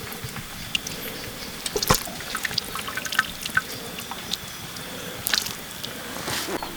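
Liquid trickling and dripping, with scattered sharp clinks and a louder knock about two seconds in.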